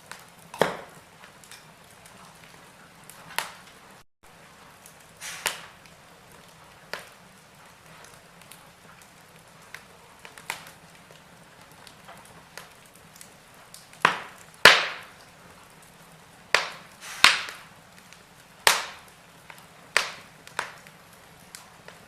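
Wood fire in a fireplace crackling, with sharp irregular pops every second or few seconds over a faint steady hiss; the pops come thicker and louder in the second half.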